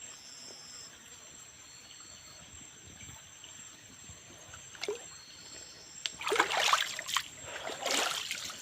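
Water splashing and sloshing in a shallow rocky stream, in two loud bursts about six and eight seconds in, over faint steady insect chirring.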